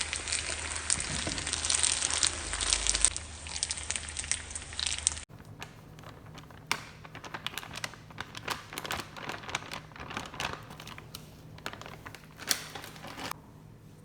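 Dense crackling and crinkling for about five seconds. After an abrupt change it becomes quieter, scattered crackles and snaps, then drops away near the end.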